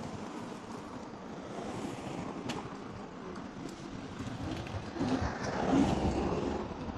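Riding noise from an electric scooter on snowy city streets: wind on the microphone and tyre noise, getting louder and rumblier about five seconds in.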